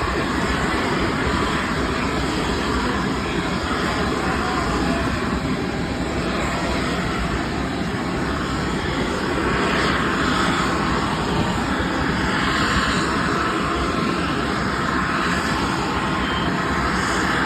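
McDonnell Douglas MD-11's jet engines running, a loud steady rush of engine noise that swells slightly now and then.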